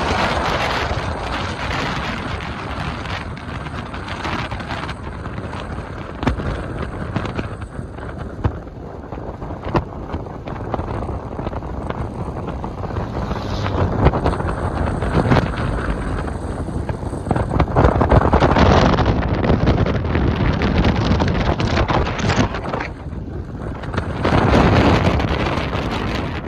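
Heavy wind buffeting the microphone on a moving motorcycle, a rushing roar that swells and eases in gusts.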